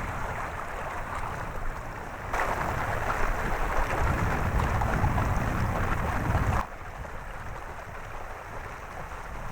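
Wind on the microphone and water rushing past a small boat underway on a tidal river, a steady hiss and rumble. A louder stretch cuts in abruptly about two seconds in and drops away just as suddenly near seven seconds.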